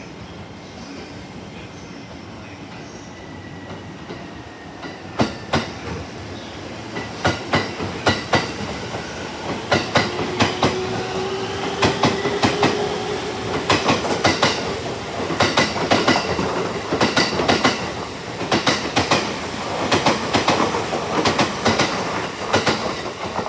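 E231-series electric commuter train pulling out and accelerating past. The wheels clack over rail joints in pairs that come faster and faster, and the traction motors give a rising whine partway through.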